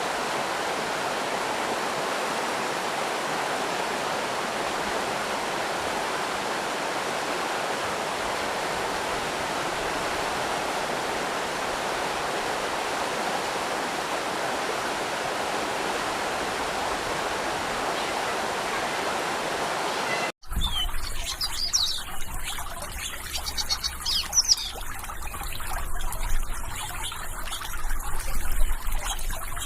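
Steady rushing of a stream or small waterfall, cut off abruptly about twenty seconds in. After the cut, birds chirp in short irregular calls over a fainter trickle of water and a low rumble.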